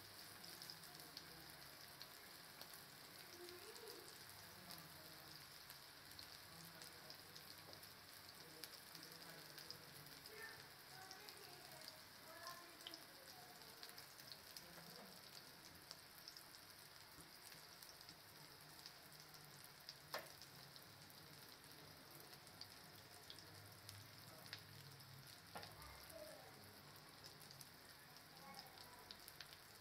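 Mutton chapli kababs shallow-frying in oil in a non-stick pan: a faint, steady sizzle with fine crackles, and a sharper pop about twenty seconds in.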